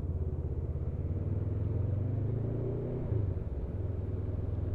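Motorcycle engine running under steady throttle, a low hum whose pitch rises slightly and then dips about three seconds in.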